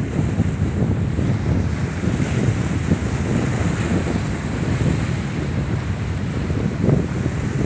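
Strong wind buffeting the microphone: a continuous low rumble that swells and eases unevenly.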